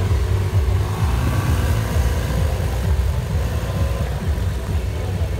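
Lamborghini supercar's engine running with a steady low rumble as the car rolls slowly away.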